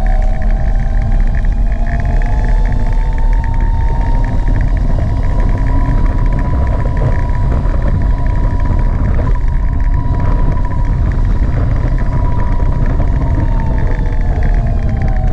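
Gogoro 2 electric scooter's motor whining as it rides, the pitch rising over the first two seconds, holding steady, and falling near the end, under a heavy rumble of wind on the microphone.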